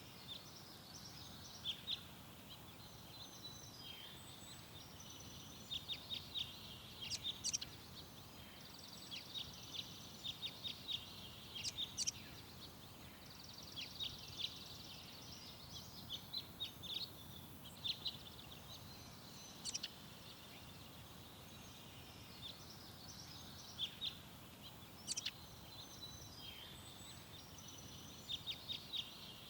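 Small songbirds chirping and trilling in short phrases again and again, over a faint steady outdoor background.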